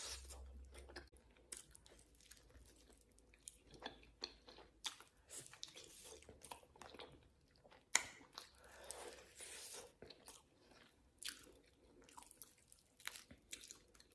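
A person chewing and biting shisanyama food close to the microphone: faint, irregular wet mouth clicks and crunches, with one sharper crunch about halfway through.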